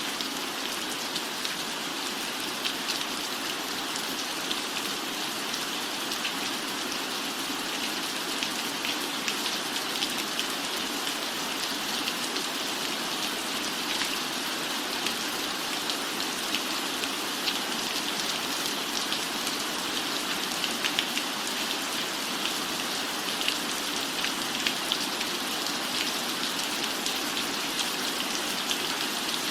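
Steady rain falling on a roof, an even hiss with scattered sharp drop ticks.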